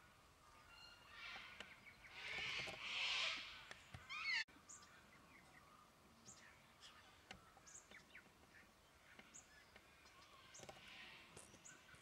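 White-winged chough calling: harsh rasping calls, loudest about two to three seconds in, then a quick run of short falling notes just after four seconds that cuts off suddenly. Scattered soft chirps follow, with another rasp near the end.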